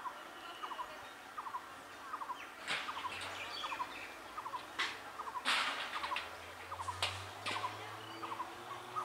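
An EMU local train approaching slowly: a low hum sets in about three seconds in, with a few sharp knocks and a faint rising whine near the end. Throughout, a bird repeats a short, rapid chattering call about every two-thirds of a second.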